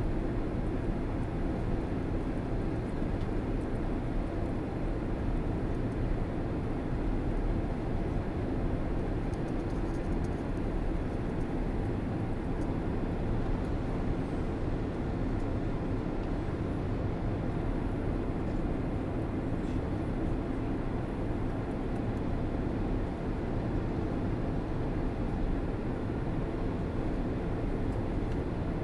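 Airliner cabin noise: the engines and airflow make a steady low rumbling noise that does not change.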